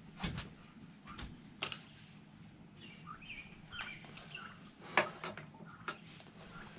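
Occasional sharp clicks and taps of tools and motorcycle parts being handled, with short bird chirps in the background.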